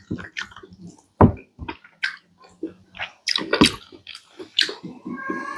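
Close-miked chewing of smoked pork, with irregular wet smacking and mouth clicks.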